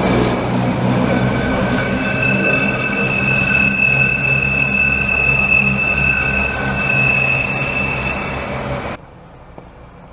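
Budapest cog-wheel railway railcars running past and away, a low rumble from the running gear under a steady high-pitched wheel squeal. The sound cuts off suddenly near the end, leaving a much quieter background.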